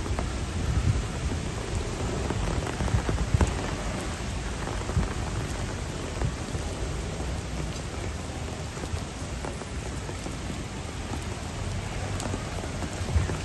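Heavy rain falling steadily, with a low rumble underneath and a few brief louder knocks about three seconds in.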